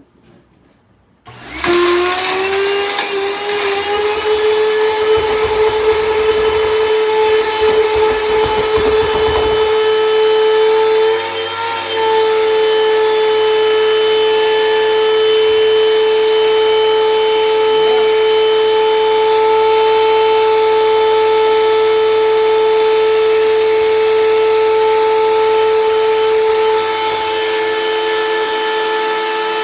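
Hoover vacuum cleaner switched on about a second in, its motor whine climbing to speed, with screws and debris it has sucked in clattering and rattling through it for the first several seconds. Then a steady, loud motor whine, with a brief dip about twelve seconds in.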